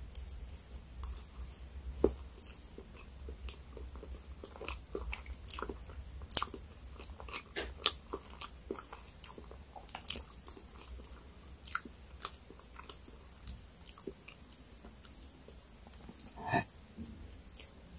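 Close-miked chewing of soft cream-layered rainbow cake, with scattered wet mouth clicks and smacks, a few much louder than the rest. Near the end a fork cuts into the next slice, with one short louder sound.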